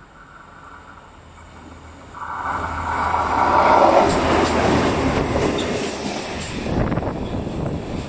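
Baneservice maintenance train locomotive passing close at speed. Its noise builds and jumps sharply about two seconds in, peaks as it goes by, then the wheels rattle over the rail joints and the sound fades as the train pulls away.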